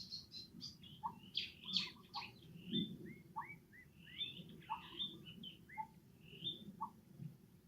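Many short, high-pitched animal chirps and squeaks in quick succession, some sliding downward in pitch, over a low rustling.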